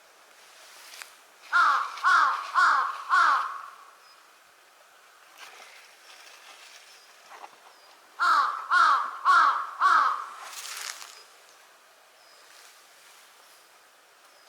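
Large-billed crow cawing: two series of four loud caws, the first about a second and a half in, the second about eight seconds in, each caw dropping slightly in pitch.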